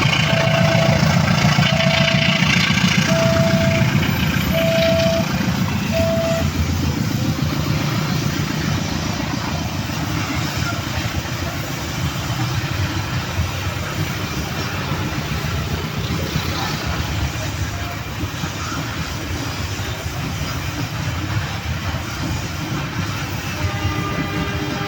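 Babaranjang coal train hauled by a CC 204 diesel-electric locomotive passing, a steady heavy rumble of locomotive and wagons. A repeated electronic beep sounds about once a second for the first six seconds, then stops.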